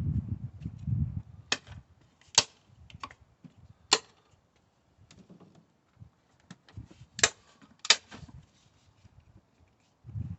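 Hand tools and engine parts being handled: a few low thumps at the start, then irregular sharp clicks and clacks, several seconds apart.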